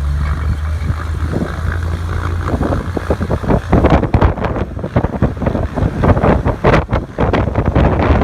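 A float plane's propeller engine runs with a steady low drone. From about four seconds in, a gusty rushing noise of wind buffeting the microphone takes over.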